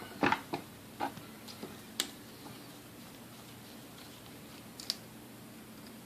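A few light clicks and taps of small parts being handled on a Sunbeam Mixmaster motor while its carbon brushes are checked. Most fall in the first two seconds, with one more about five seconds in.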